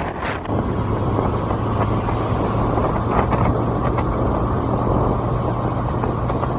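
Motorcycle engine running steadily at cruising speed, a low even hum under wind rushing past the microphone.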